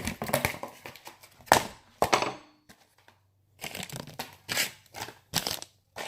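Slime being squeezed and squished by hand: a string of short, irregular crackly squishes, pausing for about a second midway.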